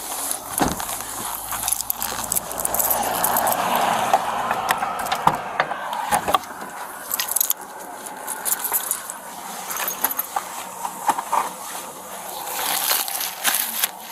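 Small metal items jingling and clicking amid rustling of clothing and movement, with many short clicks throughout.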